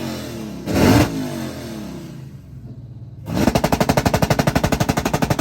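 A car engine being revved in a rev battle: a short blip about a second in, then idle. From about three seconds in it sweeps up and bounces off the rev limiter in a rapid stutter of about a dozen pulses a second that lasts to the end.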